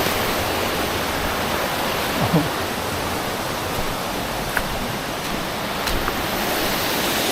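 Mountain stream flowing over rocks: a steady rushing hiss of water, with a couple of faint ticks about four and a half and six seconds in.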